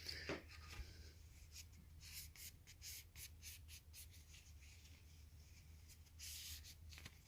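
Faint rubbing and light scratching of a rag wiping down the engine's cylinder-head surface where the valve cover seats, with scattered soft ticks and a slightly louder stretch of rubbing about six seconds in.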